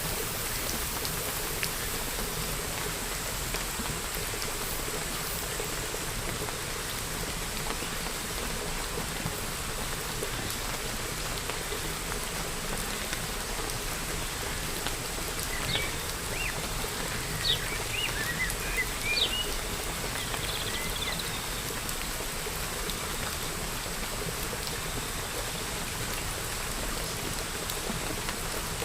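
Steady rain falling. About halfway through, a few seconds of short, quick bird chirps.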